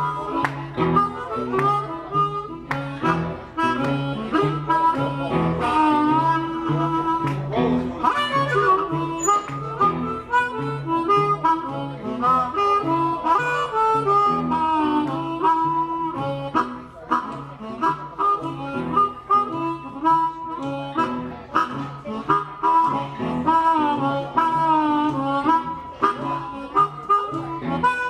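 Live blues shuffle: a harmonica plays a lead line with bent notes over a repeating guitar bass figure.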